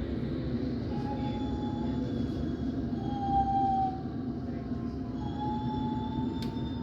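Metropolitan line S8 Stock train slowing to a stop at a platform: a steady low rumble with thin, high squeals from the wheels and brakes, the loudest squeal about three seconds in.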